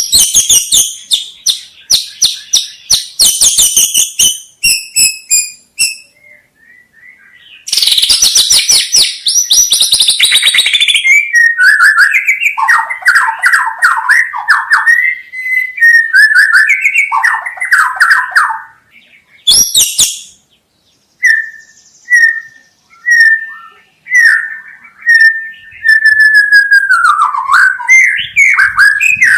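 White-rumped shama (murai batu) singing a varied song. It opens with fast ticking chatters and high trills, then moves to clear whistled phrases that slide up and down, with brief pauses between bouts.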